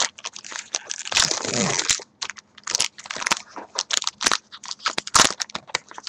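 Wrapper of a 2011 Topps baseball card pack crinkling and being torn open, with many irregular crackles and a longer rip about a second in.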